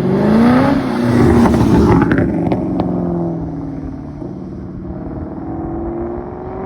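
A performance car's engine revving and accelerating away, its pitch climbing in the first second, with a few sharp exhaust cracks about two seconds in. Then it settles into a steadier drone that starts rising again near the end.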